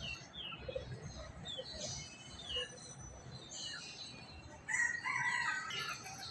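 Small birds chirping faintly with short falling notes, then about two thirds in a rooster crows once, the loudest sound.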